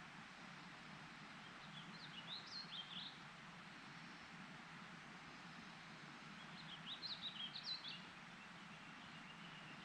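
A songbird sings two short phrases of quick, high warbling notes, about two seconds in and again about seven seconds in, over a faint steady background hiss.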